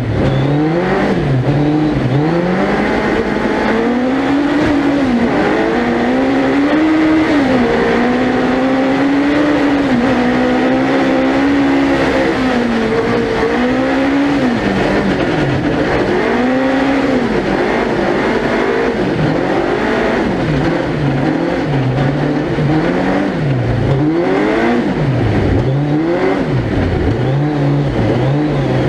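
Suzuki Hayabusa 1300cc four-cylinder motorcycle engine in a tubular-chassis ice-racing prototype, revving hard on a lap. It holds high revs through the middle, then drops and climbs again and again through quick gear changes and lifts in the second half.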